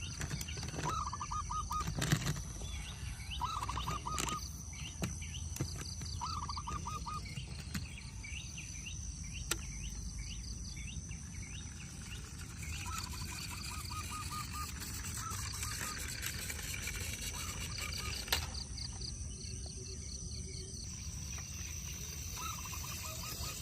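Birds calling: short rapid trilled chirps, repeated every few seconds over a steady low background noise, with a few sharp clicks in the first half.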